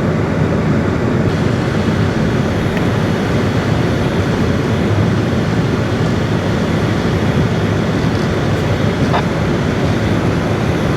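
Vehicle engine running steadily under load, pulling a stuck vehicle out of deep snow on a recovery strap.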